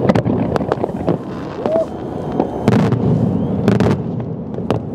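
Fireworks display: aerial shells and fountains going off in a series of irregular bangs and crackles, the heaviest bang a little under three seconds in.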